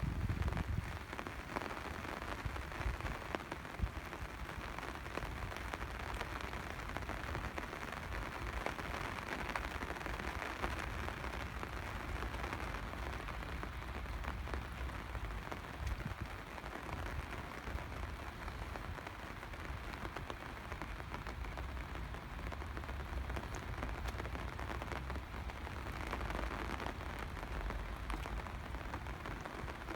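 Steady rain falling, an even hiss of many small drops striking surfaces.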